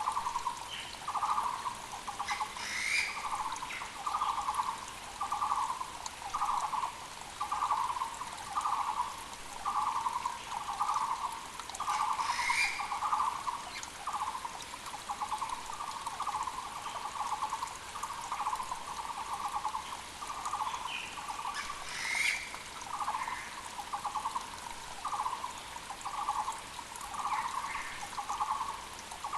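A Taiwan barbet (the Muller's barbet of Taiwan) calling a long, even series of short low notes, a little more than one a second, over a mountain creek's steady rush. Other birds add brief higher calls now and then.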